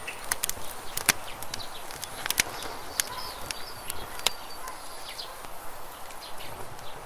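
Wood fire crackling: irregular sharp pops and snaps over a steady hiss, a few of them louder, about one, two and a half and three seconds in.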